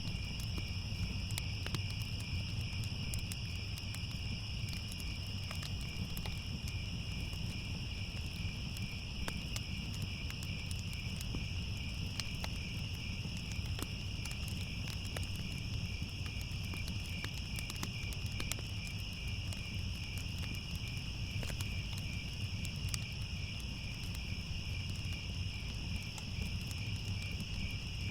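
Crickets trilling in a steady, unbroken chorus, over the low rumble and scattered small crackles of a wood fire.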